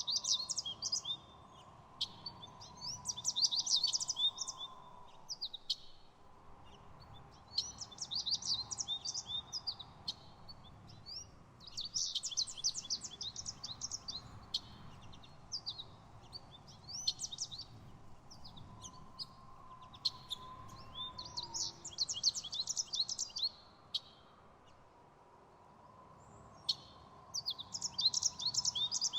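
A songbird twittering, with bursts of rapid, high chirps coming every few seconds.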